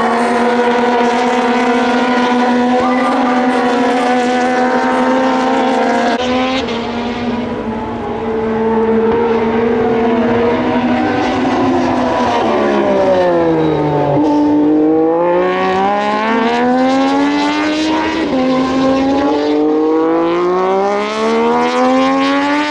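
Moto2 race bikes' Triumph 765 cc three-cylinder engines running at high revs, more than one machine at once. About twelve seconds in the pitch falls as they brake and shift down, then climbs again through the gears, with an upshift about eighteen seconds in.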